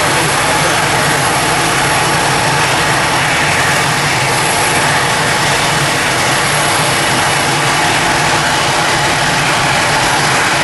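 Airbus A320 jet engines running, a loud, steady, even noise that holds without change.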